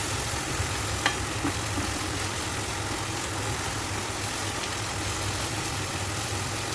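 Liver sautéing in a frying pan, with a steady sizzling hiss and a steady low hum underneath. A light tap comes about a second in.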